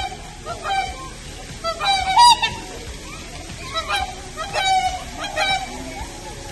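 Waterfowl calling repeatedly: a string of short honking calls, one or two a second.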